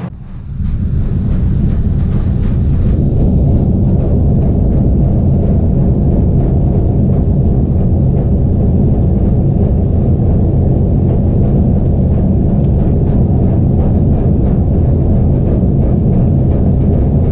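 Steady, loud rumble of a moving train heard from inside the carriage, rising within the first second to an even level.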